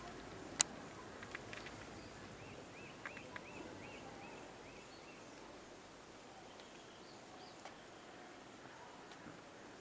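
Faint background ambience with a bird calling a quick run of about eight short chirps a couple of seconds in. A single sharp click sounds about half a second in.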